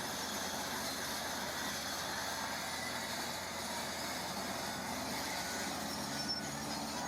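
Heavy earthmoving machinery running steadily. About five seconds in, a lower, steadier engine note joins in.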